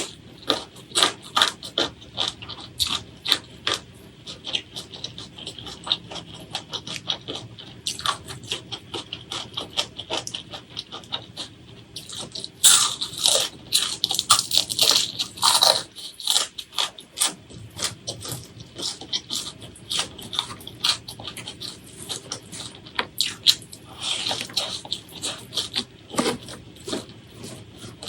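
Close-miked chewing and crunching of food, a continuous run of quick wet clicks and smacks, with denser crunching in the middle and again near the end.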